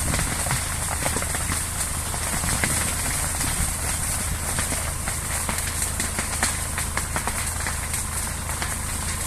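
Fire burning, with many irregular crackles and pops over a steady low roar.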